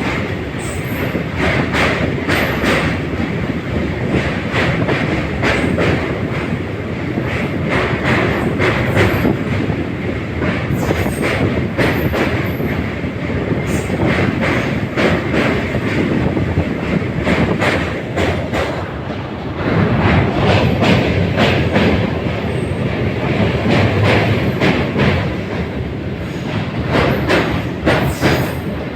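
Train running across a long railway bridge: a steady loud rumble with the wheels clattering over the rail joints in short irregular clicks.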